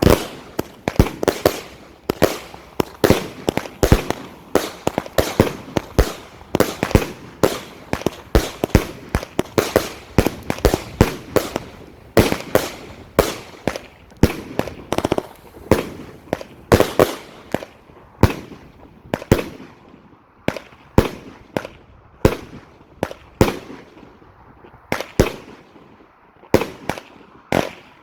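A 25-shot consumer fireworks battery cake firing: a steady string of sharp shot reports, about one to two a second.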